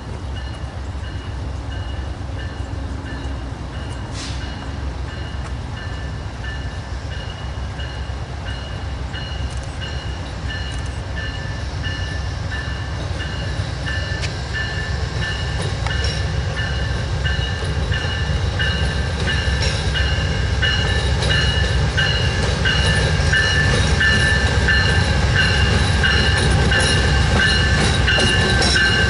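A train rolling by with a heavy low rumble that grows steadily louder, a steady high-pitched tone held over it throughout.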